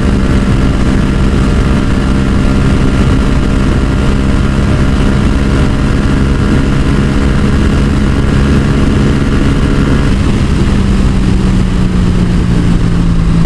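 Yamaha XSR700's parallel-twin engine with its Yoshimura exhaust running at a steady cruising pace, its pitch holding level, over heavy wind rush. About ten seconds in its higher tones thin out slightly.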